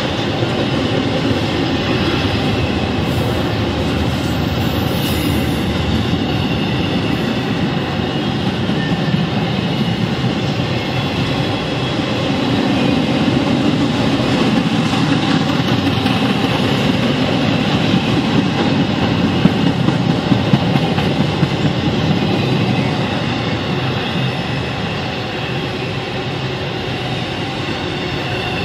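Long intermodal freight train's cars rolling past: a steady rumble and rattle of steel wheels on rail. It swells in the middle, with a few sharp clacks about two-thirds of the way through, and eases a little near the end.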